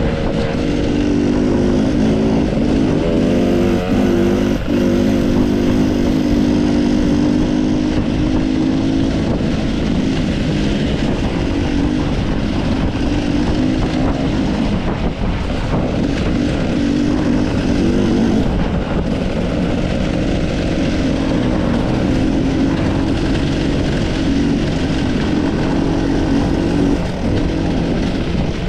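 Off-road enduro motorcycle engine running under the rider on a mountain trail, its revs rising and falling as the throttle is worked.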